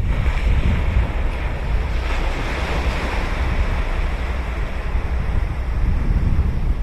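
Ocean surf breaking and washing ashore. The wash swells about two to three seconds in and then fades, over a steady low rumble of wind on the microphone.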